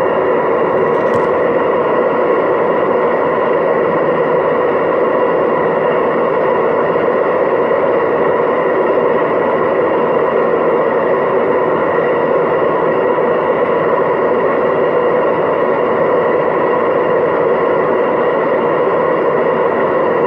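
Hoover DYNS 6105 DZ front-loading washing machine in its 1000 rpm final spin: a loud, steady whirring rush with a hum of several steady tones and no change in speed. A brief tick comes about a second in. The machine has known worn drum bearings.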